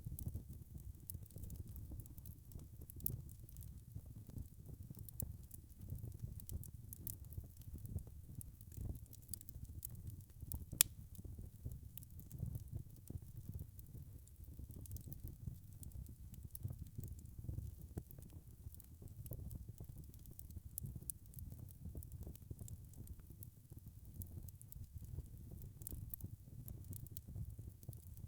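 Logs burning in a fireplace: a steady low rumble of flames with frequent small crackles and pops, and one sharper pop about eleven seconds in.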